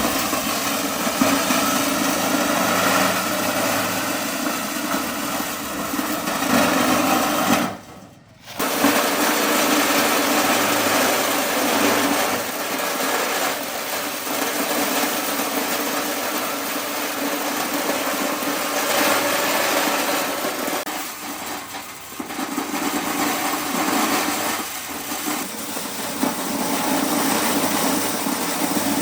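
A small engine running steadily, with a short break in the sound about eight seconds in.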